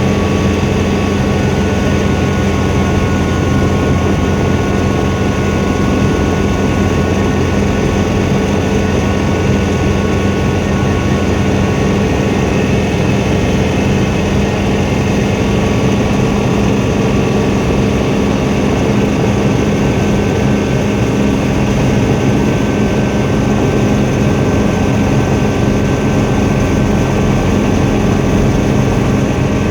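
Helicopter engine and rotor running at a steady pitch and level, a loud continuous drone.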